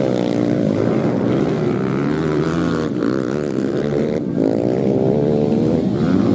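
Several racing dirt-bike engines running at once, their pitch rising and falling as the riders work the throttles.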